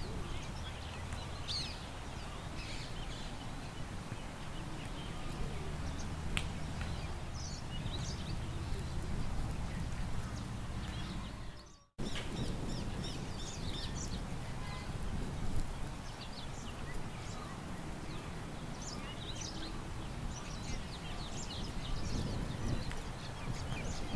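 Park ambience: small birds chirping and twittering over a steady low wind rumble. The sound dips and cuts out for a moment about halfway, then comes straight back.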